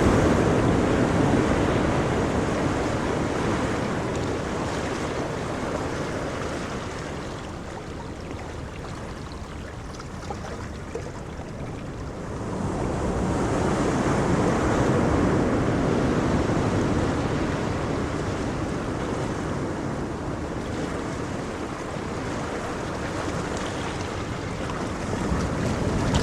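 Ocean waves breaking and washing up the shore. The surf is loud at first and ebbs away, then a new wave surges in about halfway through and fades slowly, with another building near the end.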